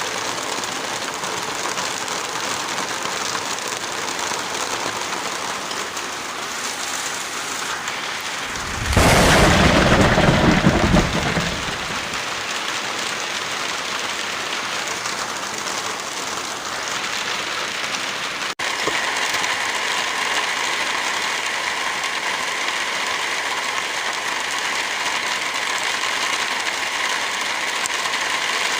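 Heavy, steady rain. About nine seconds in, a louder, deeper rush lasts two to three seconds. Past the middle the sound breaks off for an instant and the rain returns with a brighter hiss.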